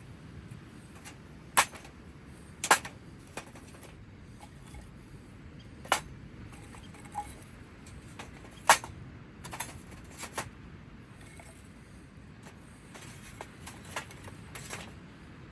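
Irregular sharp clicks and clinks of small hard items being handled, about ten spread unevenly, with three louder ones, over a faint steady rush.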